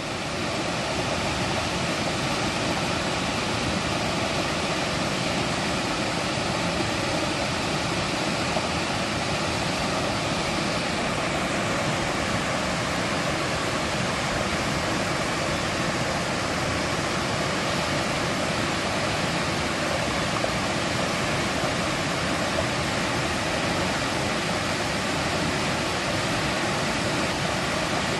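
Mountain stream rushing over rocks in a steady, dense roar of water.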